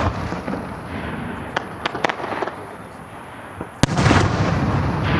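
Aerial fireworks bursting: sharp reports with scattered smaller pops and a lingering rumble and crackle between them, and a loud bang about four seconds in followed by heavy rumbling.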